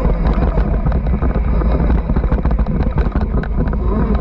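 Riding an off-road bike on a trail: wind buffeting the on-board camera's microphone over a wavering motor tone, with frequent knocks and clatter from the bumps.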